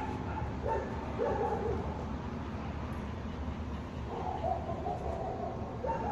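Twelve-week-old Doberman puppy whining: a few short cries early, a longer one past the middle, and more near the end.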